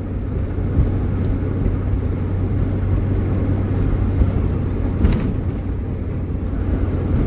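Steady engine and road drone heard inside a moving vehicle's cab, with a low hum throughout. There are two brief knocks, about a second in and again about five seconds in.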